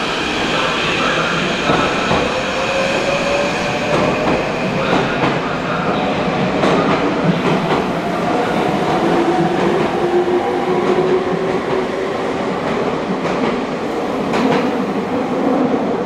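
Meitetsu electric train moving through the underground station, a loud steady rumble with scattered clicks of wheels over rail joints and a faint motor whine that slowly shifts in pitch, echoing in the enclosed station.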